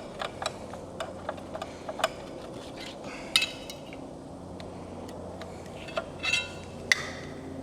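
Irregular light metallic clicks and clinks of hand tools and engine parts being handled, with a few louder ringing clinks, one about three seconds in and a couple near the end.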